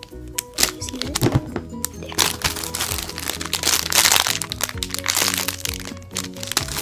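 Background music playing, with many sharp crackles and crinkles over it as foam squishies are squeezed by hand, noisiest around the middle.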